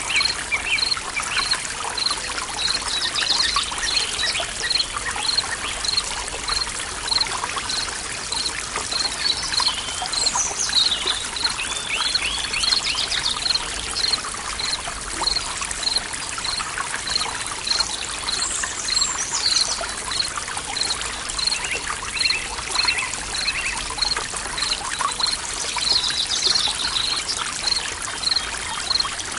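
Stream water trickling steadily, with birds chirping and trilling now and then over it. A short high pip repeats evenly, about three every two seconds.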